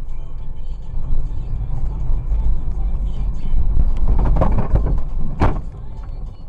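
Car on the road with a steady low rumble, then a burst of rough, crackling noise about four seconds in and a single sharp impact bang about five and a half seconds in.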